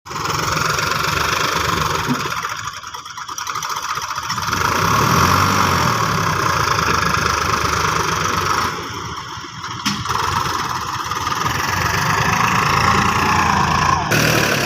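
Sonalika 734 DI tractor's diesel engine running steadily, hauling a trolley. It drops quieter twice, about two seconds in and again about nine seconds in, then picks up again.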